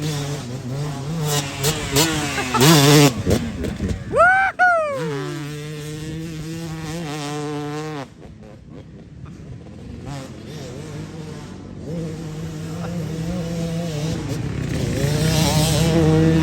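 Dirt bike riding on a motocross track. The motor's pitch sweeps sharply up and back down about four seconds in, then it runs steadily. It cuts off abruptly at about eight seconds, and the sound builds again near the end.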